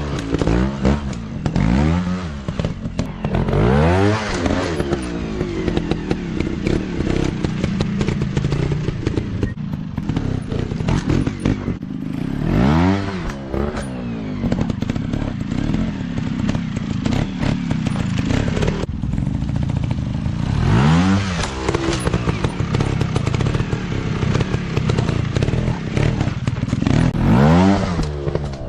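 Dirt bike engines running, with the throttle opened and closed again and again so the engine note rises and falls in pitch, several times near the start, once around the middle, and again late on.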